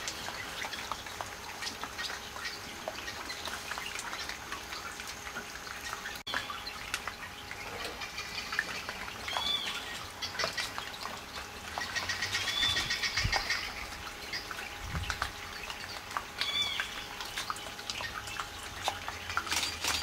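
Wild birds calling: short arched notes repeated every few seconds, and twice a quick chattering run of many rapid notes.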